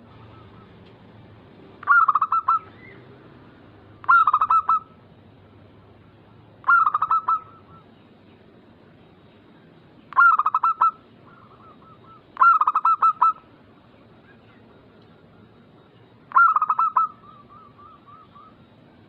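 Zebra dove (perkutut) singing: six short rapid cooing phrases, each under a second, a few seconds apart. Softer trailing coos follow a couple of them.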